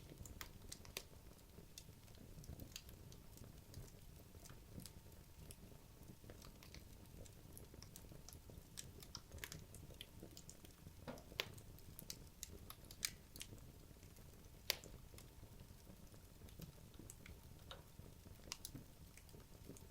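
Wood logs burning in a fireplace: quiet, irregular crackling with a few sharper pops over a low, steady flame noise. One pop about three-quarters through is louder than the rest.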